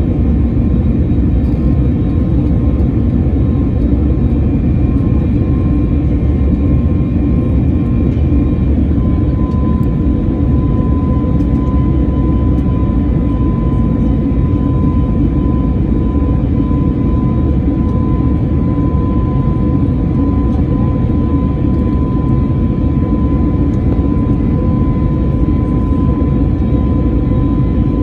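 Cabin noise of an Airbus A321neo's CFM LEAP-1A turbofan engines running at high power during departure, heard from a window seat: a steady loud roar with a thin engine whine that steps slightly higher about nine seconds in.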